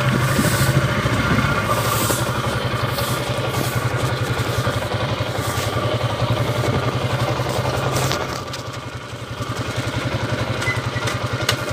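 Honda TMX155 single-cylinder four-stroke engine running steadily with an even firing beat, easing off somewhat about eight seconds in. This bike's transmission drones in first and third gear, which the mechanic puts down, perhaps, to a worn countershaft pilot bearing.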